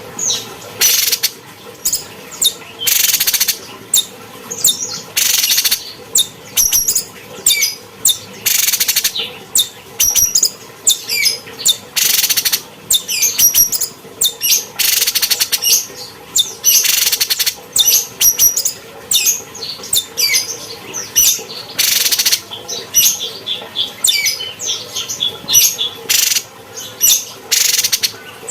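Cucak cungkok songbird singing without pause: fast runs of high chirps and trills broken by frequent harsh, raspy bursts.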